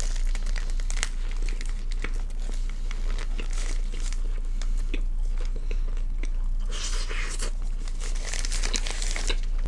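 Close-miked chewing and biting into a veg kathi roll, with its paper wrapper crinkling in the hands, loudest in two bursts near the end, over a steady low hum.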